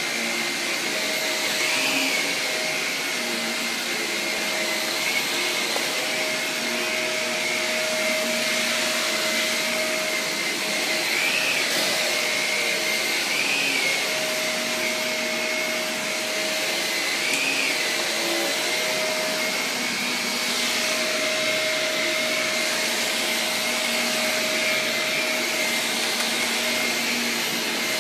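Vacuum cleaner running steadily, a whooshing motor noise with a high whine that briefly rises in pitch a few times.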